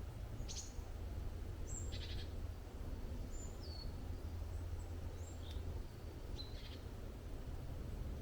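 Forest birds giving short, high chirps and a few brief downward-sliding whistles, scattered through, over a steady low rumble.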